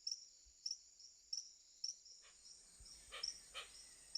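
Faint rainforest insect sound: a cricket-like chirp repeating a little under twice a second over a steady high trill. Two brief, broader calls come in the second half.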